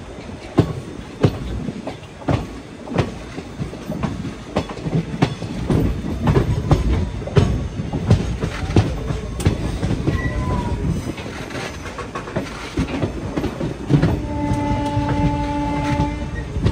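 Passenger express train running at speed, heard from the coach doorway: a steady rumble with the wheels clacking over rail joints. About 14 seconds in, a horn sounds one steady blast for about two seconds.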